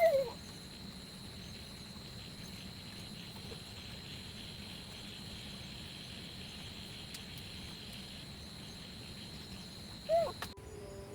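Rural outdoor background with a steady high insect drone, broken twice by a short wavering call. Near the end it cuts off abruptly and music starts.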